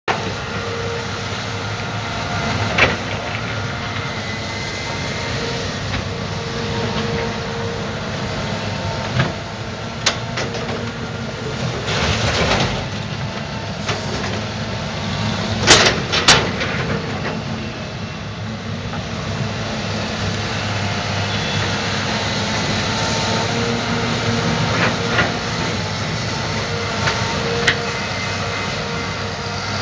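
Terex 340LC hydraulic excavator working: its diesel engine and hydraulics run steadily throughout, with a handful of sharp clanks and knocks scattered through, the loudest two close together a little over halfway through.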